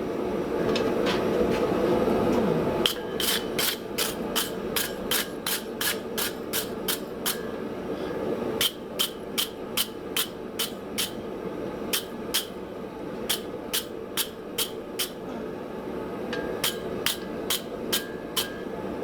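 Hand hammer striking hot steel on an anvil, setting a hardy tool's shank down into the hardy hole: runs of sharp, ringing blows, about three a second with short pauses between runs, beginning about three seconds in, over a steady background hum.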